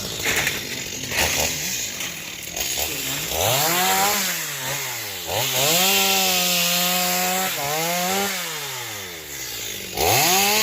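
Chainsaw revving and cutting into the trunk of a fallen tamarind tree. The engine revs up about three seconds in, holds high for a couple of seconds, drops, and revs up again near the end.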